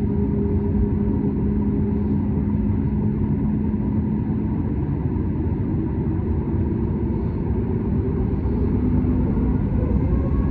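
Boeing 737 MAX 8 with CFM LEAP-1B turbofans at takeoff (TO/GA) thrust: a steady, loud low rumble with an engine hum whose pitch shifts about halfway through.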